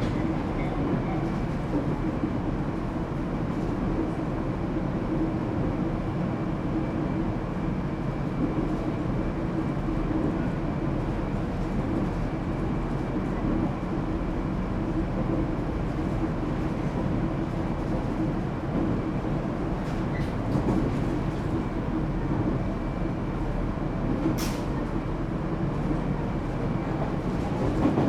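Echigo TOKImeki Railway ET127 series electric train running at a steady speed, heard inside the passenger car: an even rumble of wheels on rail with no rising or falling motor whine. One sharp click a few seconds before the end.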